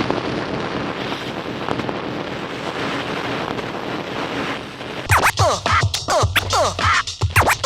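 A steady rushing noise, then about five seconds in a beat starts with turntable scratching: quick, repeated falling sweeps over a steady low pulse.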